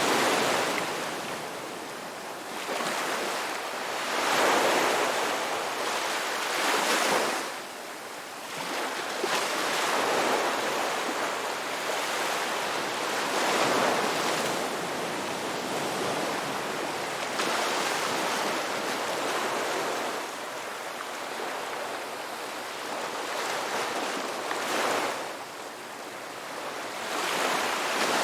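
Ocean surf on a beach: a continuous wash of waves that swells and falls back at uneven intervals of a few seconds.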